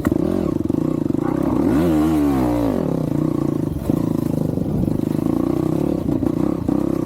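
Single-cylinder four-stroke dirt bike engine running under way. The revs rise and drop back about two seconds in, then hold steady.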